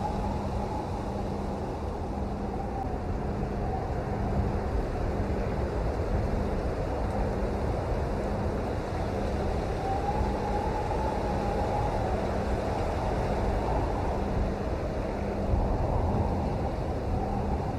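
Steady rain, a dense unbroken noise weighted toward the low end, with a faint pulsing hum beneath it.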